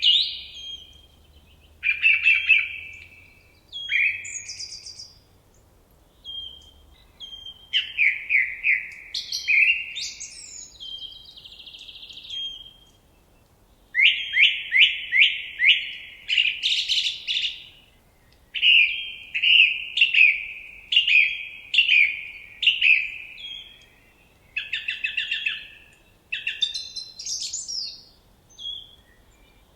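A songbird singing in a string of short, varied phrases, each a quick run of repeated sweeping notes lasting a second or two, with brief pauses between phrases.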